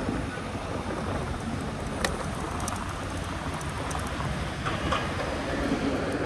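Ride noise from an e-bike on 20x4 fat tires: a steady rushing rumble of tires and air, with a sharp click about two seconds in and a few light rattles near the end.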